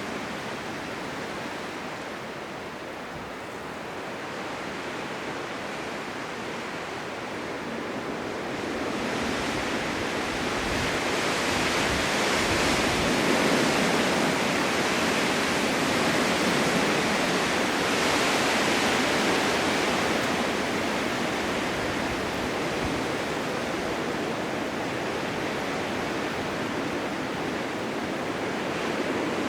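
Blizzard wind: a steady rushing that swells into a stronger gust about a third of the way in and eases off again toward the end.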